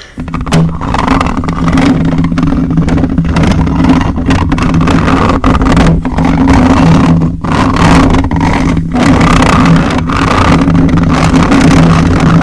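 A small electric motor buzzing steadily right up against the microphone. It switches on abruptly at the start, holds a low two-note hum with a rushing noise over it, and dips briefly a few times.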